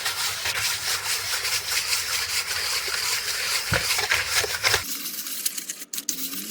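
Hand sanding of a car cylinder head's gasket surface with 220-grit sandpaper: a steady scratchy rubbing made of quick back-and-forth strokes. This is a light cleaning of the deck, not resurfacing.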